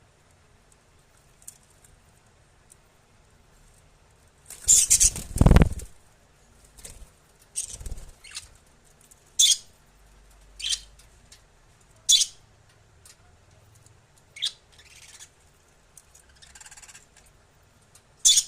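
Pet lovebirds giving short, shrill chirps every second or two, with a louder flurry of flapping and rustling about five seconds in.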